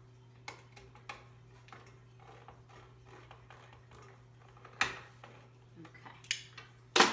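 Hand-held can opener working its way around a stubborn metal can: irregular small metallic clicks and scrapes, with a few sharper clicks in the second half.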